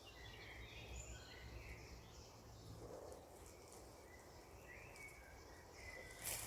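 Faint songbirds singing outdoors: short chirps and warbling phrases from more than one bird, over a steady low background rumble.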